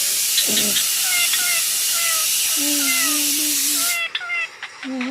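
Pet parrot chirping and whistling in short, repeated calls, with a few longer held calls. Behind it a steady hiss stops suddenly about four seconds in.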